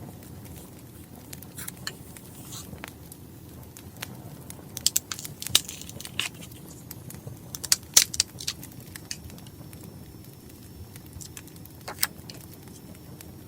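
Crackling wood fire: a steady low rush with scattered sharp pops and snaps, a cluster about five seconds in, another about eight seconds in, and a lone pop near the end.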